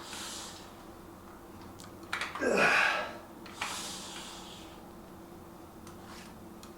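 A man breathing hard while straining through a dumbbell set. A short breath comes at the start, then a strained voiced grunt about two seconds in, then a long hissing exhale.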